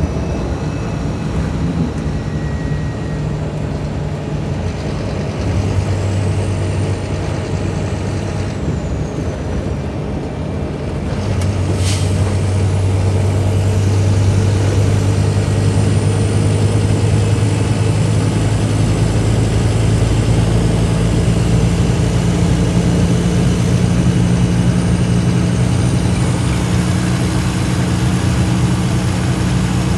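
Scania K310IB bus's diesel engine running, getting louder about eleven seconds in as it pulls harder and then holding steady, with a faint high whine over it. There is a brief sharp click about twelve seconds in.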